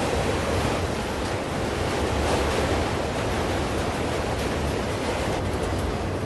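Steady rushing roar of an auto train's rack cars rolling past on the rails, with a few faint clicks near the end.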